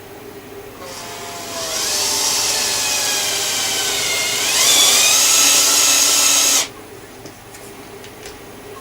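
A small electric motor spinning up with a rising whine that climbs sharply about four and a half seconds in, then cuts off suddenly.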